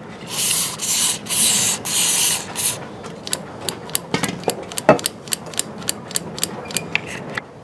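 Hand work on a chainsaw's plastic recoil starter pawl assembly. There are a few short hissing, rubbing strokes, then a run of small sharp clicks, about three a second, with one heavier knock about five seconds in.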